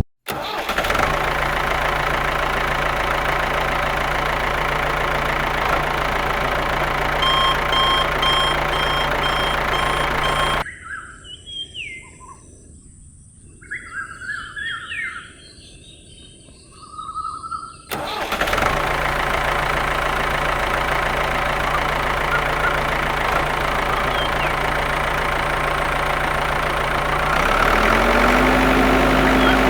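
A homemade mini tractor's small motor running at a steady pitch. Partway through it drops away for several seconds, leaving birds chirping, then comes back; near the end its note steps up and gets a little louder.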